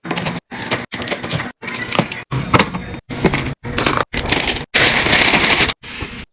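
Fridge-restocking handling sounds chopped into quick cuts about every half second: clicks, knocks and rustles of packaging and containers being handled and set down. About five seconds in there is a steady hiss-like noise lasting about a second.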